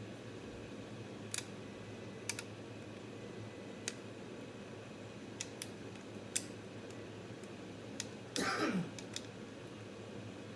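Scattered small clicks and ticks of a hand screwdriver and screw being worked into the mounting hole of a power supply's cooling fan, with one brief louder scrape that falls in pitch about eight seconds in.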